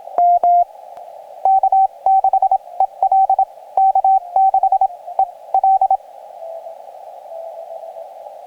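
Morse code on a portable ham transceiver: a loud, single-pitched sidetone keyed in dits and dahs, each element marked by a sharp click, over the narrow-filtered hiss of the receiver. About six seconds in, the sending stops and a fainter Morse signal at a slightly lower pitch, another station answering, comes through the hiss.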